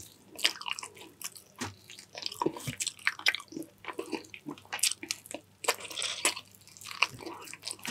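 Wet chewing and mouth smacks of a person eating saucy chicken stewed in coconut milk, a steady run of short smacks and clicks.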